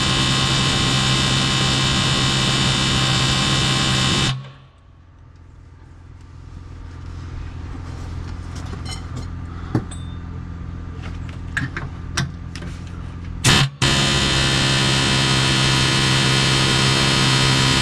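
A power cutting tool runs at a steady pitch while cutting out a welded sleeve, stopping suddenly about four seconds in. A quieter stretch with a few sharp clicks and knocks follows, and then the tool runs again, steady, for the last four seconds.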